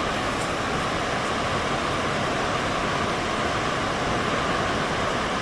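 Steady, even rushing of a large waterfall, Snoqualmie Falls, with no change in level.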